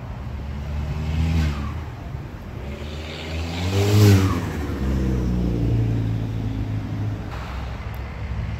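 Straight-piped exhaust of a 2013 Audi A4's turbocharged 2.0-litre four-cylinder being revved: a small rise and fall about a second in, then a bigger rev that climbs to its loudest about four seconds in and drops back to a steady idle.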